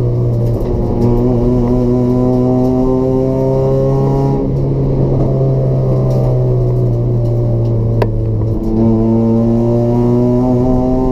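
Race-built Toyota Etios's 1.5-litre petrol engine with a free-flow exhaust, pulling hard with its pitch climbing steadily and two gear changes, about four and a half and eight and a half seconds in. A single sharp click about eight seconds in.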